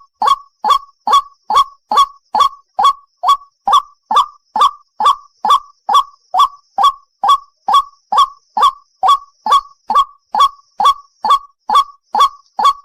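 White-breasted waterhen calling: short harsh notes repeated evenly and monotonously, a little over two a second.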